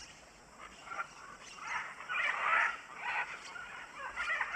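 Macaws squawking: a string of short, harsh calls that start about a second in and are loudest around the middle.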